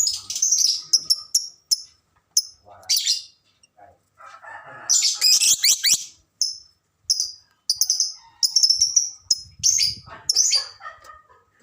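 Lovebirds chattering: bursts of shrill, high chirps broken by short pauses, with the longest run of chirping about halfway through.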